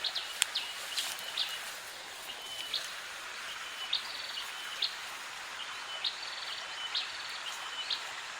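A bird calling over and over, short high notes about once a second, above a steady outdoor hiss. A single sharp click sounds about half a second in.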